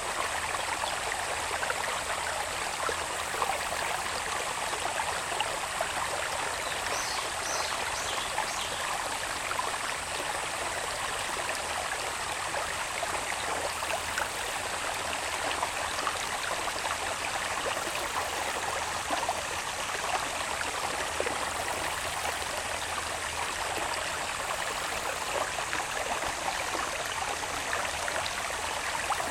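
Water babbling steadily along a small channel running from the hills into rice fields, with a steady high insect drone in the background. Three short high chirps come about seven seconds in.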